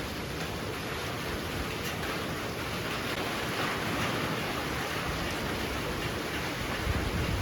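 Heavy rain pouring steadily with strong wind; the rush swells a little midway, and a brief low gust of wind hits the microphone near the end.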